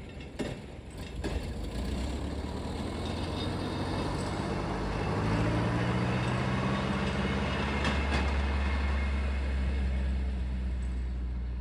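A rail vehicle passes at the grade crossing: a deep, steady engine drone that grows louder about five seconds in, with a few sharp clicks.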